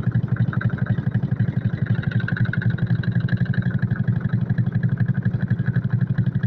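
Washing machine running with a steady low rumble that pulses rapidly and evenly, the drum knocking as it spins: the sign of a failed suspension that lets the machine shake and jump.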